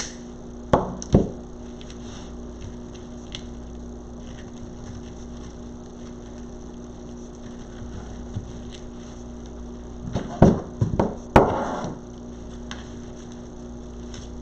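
Crafting handling noise: ribbon rustling and light knocks as ribbon poofs are worked and fastened onto a wreath frame. There are two short knocks about a second in and a cluster of knocks and rustles about ten to twelve seconds in, over a steady electrical hum.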